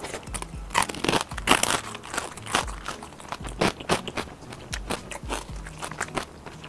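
Close-miked chewing of crispy deep-fried skewer food, a steady run of crunches about twice a second.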